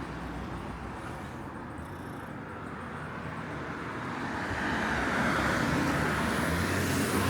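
Road traffic noise, with a passing vehicle growing louder in the second half.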